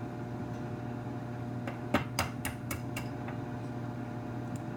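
Microwave oven running with a steady hum while it heats butter. A quick run of light clinks and taps of dishes about two seconds in, the first the loudest.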